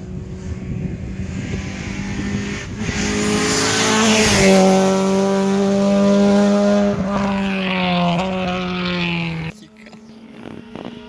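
Rally car engine at high revs, swelling as the car comes close and passes, with a burst of hiss at its loudest. The engine note holds with a few small steps in pitch, then cuts off abruptly about a second and a half before the end.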